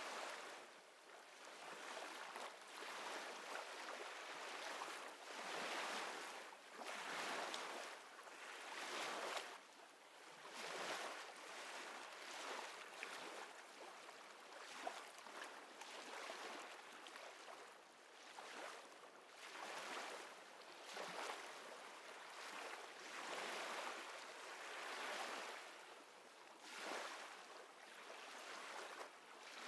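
Small waves lapping, the water noise swelling and fading every second or two.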